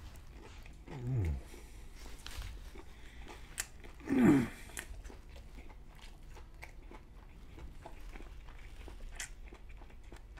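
A person chewing a mouthful of crispy fried chicken sandwich, with soft crunching and wet mouth clicks. Two brief vocal sounds from the eater break in, about a second in and, louder, about four seconds in.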